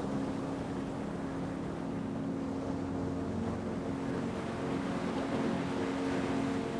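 Steady ocean wave noise under a low, steady humming drone.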